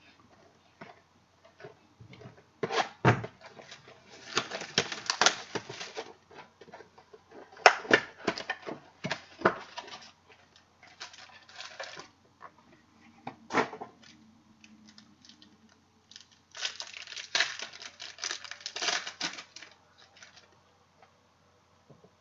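Trading cards and their packaging being handled close to the microphone: bursts of crinkling, rustling and clicking as packs are opened and cards are slid out and flipped.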